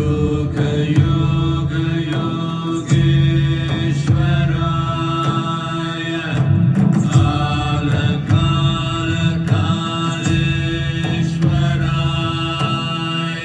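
Devotional music: voices chanting a mantra in long, held notes over a steady low drone.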